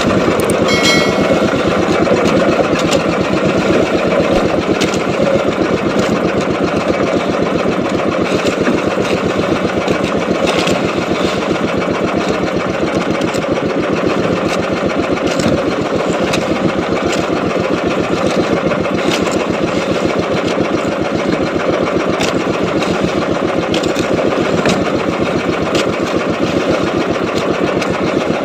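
Small boat engine running steadily at constant speed, with a fast even firing rhythm.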